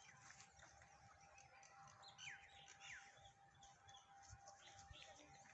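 Faint bird chirps, a few short falling peeps with two clearer ones a little past halfway, over a faint steady hum.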